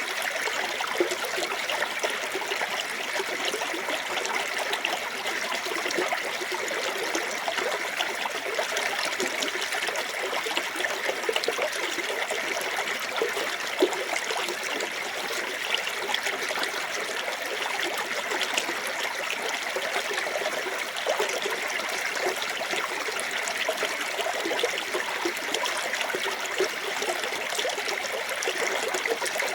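Small waterfall on a clear forest stream: water falling and splashing steadily into the pool, with a constant rush full of small trickling splashes.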